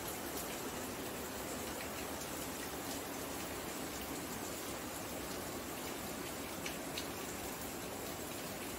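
Steady rain falling: an even hiss, with now and then a sharp drop tapping.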